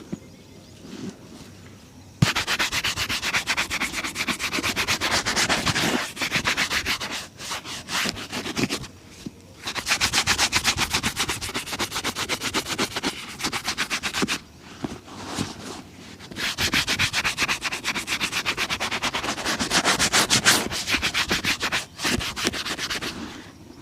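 A shoe-shine brush buffing a leather shoe in rapid, even back-and-forth strokes. It starts about two seconds in and stops briefly a couple of times before carrying on.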